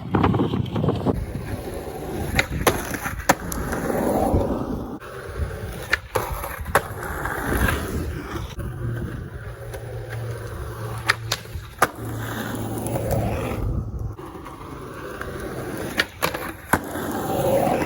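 Skateboard on new Venture trucks: wheels rolling on pavement, sharp tail pops and landings several times, and the trucks grinding along a waxed concrete ledge, in a few short separate runs.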